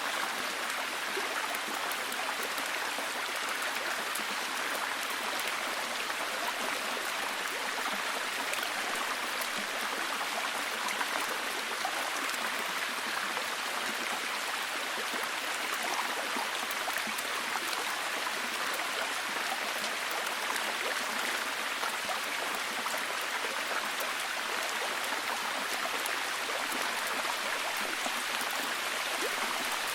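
Steady heavy rain: an even hiss of falling rain with faint scattered drop ticks.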